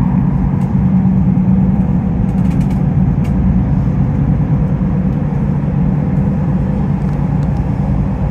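Elizabeth line Class 345 electric train running through a tunnel, heard from inside the carriage: a loud, steady low rumble of wheels on rail, with a faint steady tone above it.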